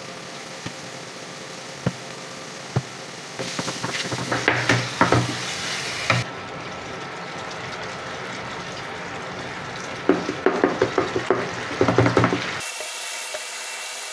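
Onions and tomatoes sizzling in a frying pan, with a wooden spatula knocking and scraping against the pan in two spells of stirring. Near the end the sizzle gives way to a softer, steadier simmer of the tomato sauce.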